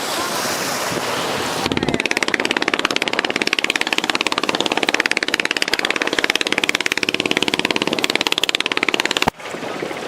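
A small engine running with a rapid, even chugging that starts abruptly just under two seconds in and cuts off suddenly about a second before the end, with a steady hiss before and after it.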